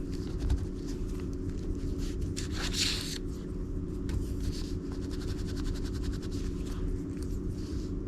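Light rustling and scraping of paper being handled, louder about three seconds in, over a steady low hum.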